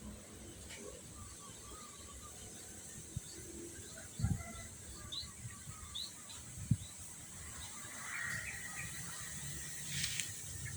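A few short, high bird chirps over a steady outdoor hiss, with two dull low thumps about four and seven seconds in.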